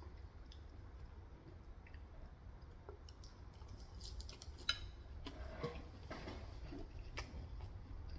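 Quiet chewing of Korean fried chicken, with scattered small clicks and mouth sounds, a few louder between about four and a half and seven seconds in.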